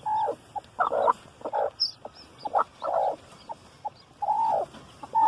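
Agitated broody hen calling loudly about half a dozen times in short, arching squawks as she is handled off her nest, with faint high peeps from newly hatched chicks between the calls.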